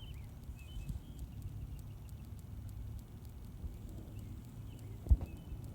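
Low background rumble with a few faint, short bird-like chirps, and a single sharp thump about five seconds in.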